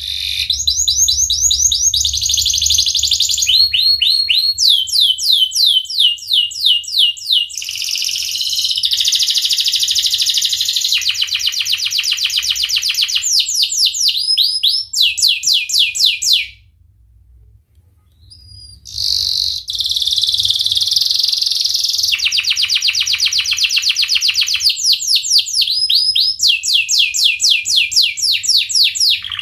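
Domestic canary singing a long, loud song of rolled trills: each phrase is a fast run of the same short high note repeated many times, switching to a new phrase every second or two. The song breaks off for about two seconds midway, then resumes.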